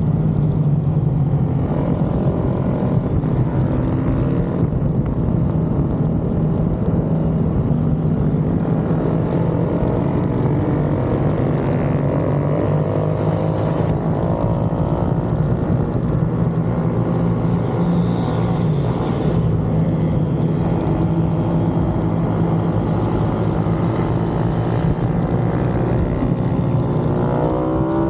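Pit bike engines revving on track, their pitch rising and falling again and again as they accelerate and shift, over a steady low drone.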